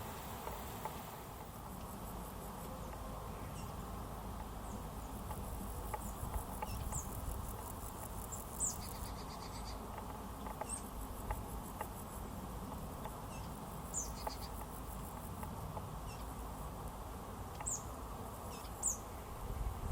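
Summer outdoor ambience: insects, with a fast high pulsing trill during the first half. About half a dozen brief, high chirps sound over a steady low background hiss.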